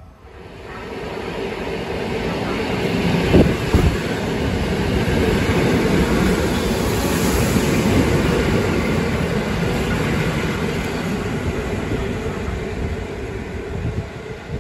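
Passenger train passing close alongside the platform: wheel and rail noise swells over the first couple of seconds and stays loud, with two sharp knocks about three and a half seconds in, easing a little near the end.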